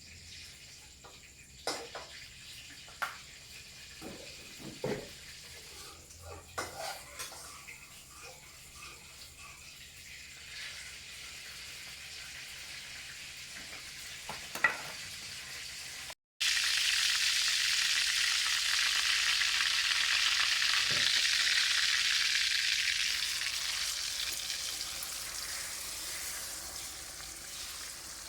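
Scattered sharp clicks and knocks of kitchen utensils for the first half, then a loud sizzle of food frying in hot oil in a pan, for a Thai stuffed omelette of egg and chopped chicken. The sizzle starts abruptly about halfway through and slowly dies down near the end.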